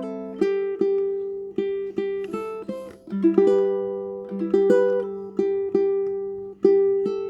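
Tenor ukulele fingerpicked, playing a slow melody of single notes and chords, each note plucked sharply and left to ring out.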